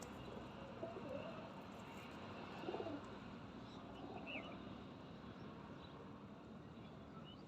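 Birds calling faintly: low calls about a second in and again near three seconds, and a short high chirp about four seconds in.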